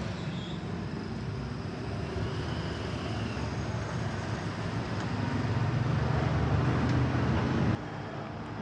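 Steady low rumbling background noise with no distinct events. It swells a little past the middle and cuts off suddenly near the end.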